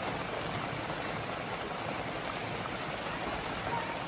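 Rain falling steadily, an even rushing noise with no breaks.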